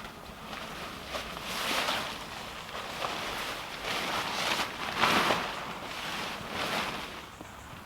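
Wind rustling through woodland leaves, coming in several swells, the strongest about five seconds in.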